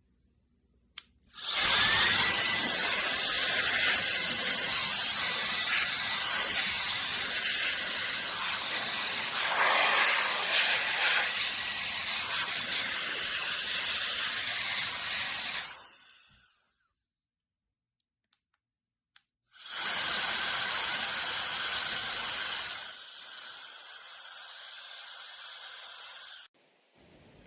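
CCV cordless electric air duster's high-speed motor and fan running, blowing air with a steady high whine over a rushing hiss. Two long runs: about fourteen seconds, a pause of a few seconds, then about seven seconds.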